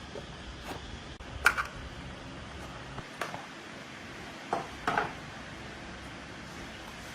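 A few sharp metallic clinks and knocks of metal parts and tools being handled: the loudest about a second and a half in, a couple more near the middle. Under them a low steady hum stops about three seconds in.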